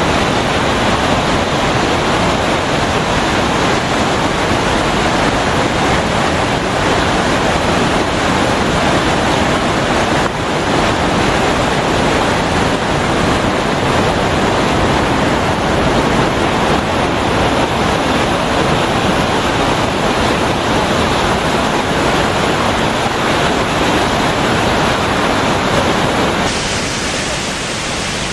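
A waterfall's loud, steady rush of falling water. About 26 seconds in it drops a little in level and loses some of its hiss.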